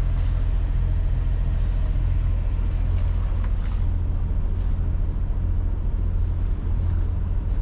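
Sailboat's inboard engine running steadily under way, a low even hum.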